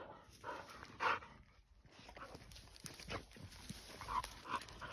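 Faint sounds of dogs on a leashed walk, with a few short vocal noises and scattered light clicks and steps.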